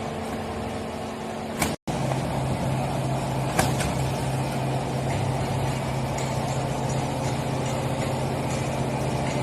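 Horizontal baler running: the steady hum of its hydraulic power unit. The sound cuts out for an instant just before two seconds in and comes back with a strong low steady tone, with a single sharp click a couple of seconds later.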